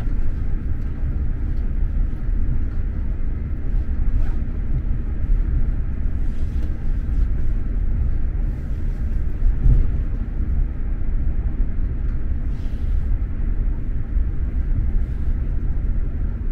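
Steady low rumble of an X2000 high-speed train running along the track, heard from on board, with a few faint ticks now and then.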